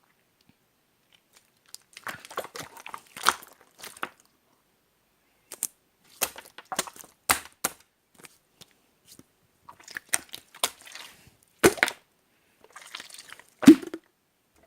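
Clear slime being squished and stretched by hand, giving clusters of sticky crackles and pops in three bouts with short pauses between. The loudest pops come near the end.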